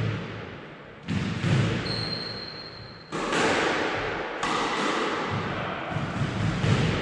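Squash ball being struck by a racket and hitting the court walls, a few sharp hits about every second or two, each ringing on in the court's echo.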